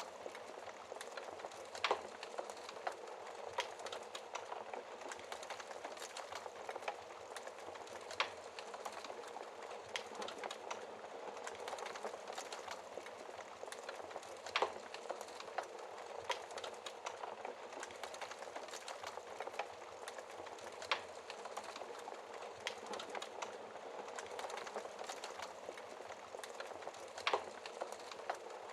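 Wood fire crackling steadily in a fireplace, a dense patter of small crackles with a few louder sharp pops spread through, about five in all.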